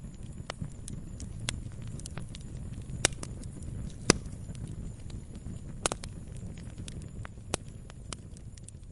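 Wood log fire crackling: irregular sharp pops and snaps over a low steady rumble, with the loudest pops about three and four seconds in.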